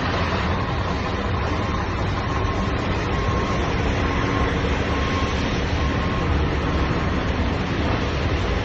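Steady highway vehicle and road noise with a heavy low rumble, and a faint short tone repeating about once a second.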